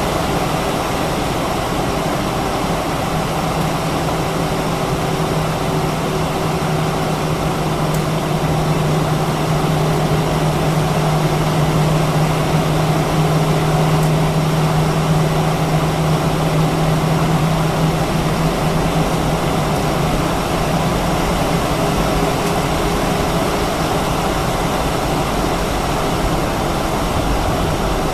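Steady cabin rumble and hiss inside an Airbus A319-132 on the ground before takeoff, with a low hum that swells from a few seconds in and fades back after the middle.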